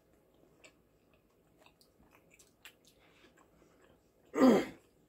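Faint chewing and small wet mouth clicks from someone eating chicken wings, then a brief loud vocal sound about four seconds in.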